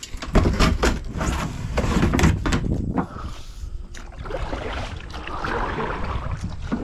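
A quick run of knocks, clacks and scrapes against a kayak's hull from handling the magnet and its line, then a rougher rushing noise for a couple of seconds.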